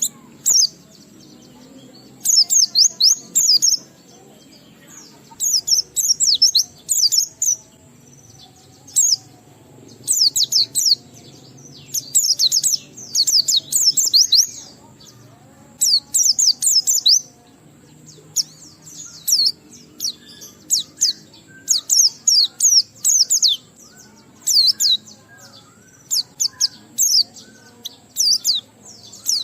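White-eye (pleci) singing in repeated bursts of rapid, high chirping notes, each phrase a second or two long with short pauses between. It is the long 'ngalas' song of a bird in full voice.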